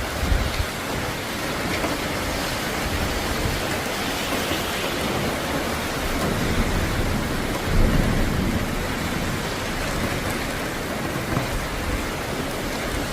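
Steady rain falling during a thunderstorm, with a low rumble of thunder swelling about eight seconds in.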